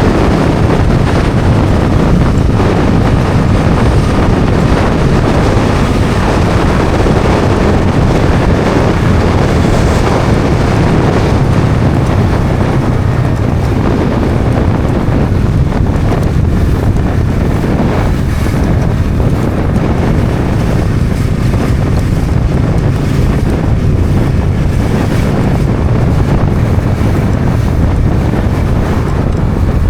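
Steady heavy wind rush over the microphone of a Bajaj Dominar 400 motorcycle at riding speed, with the bike's single-cylinder engine running underneath.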